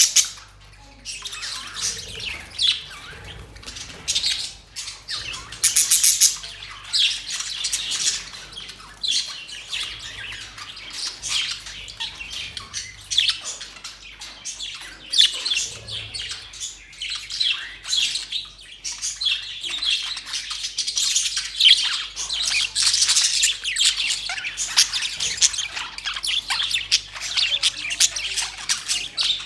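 A flock of budgerigars chattering: many overlapping short chirps, warbles and squawks.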